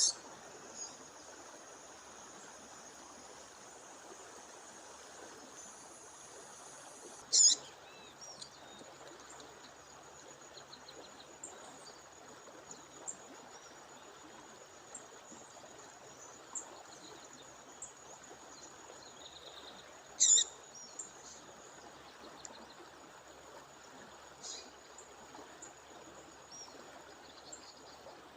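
A female songbird giving a few short, sharp calls, the loudest about a quarter and two-thirds of the way in, with faint chirps between. Under it runs the steady rush of a waterfall and a thin, steady high-pitched whine.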